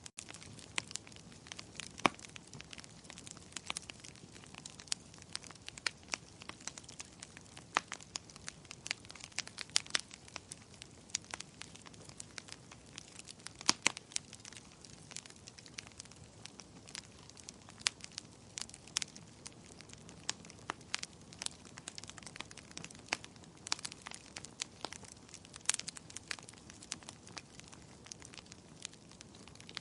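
Wood fire crackling in a fireplace: irregular sharp pops and snaps, several a second, over a faint low hiss of burning.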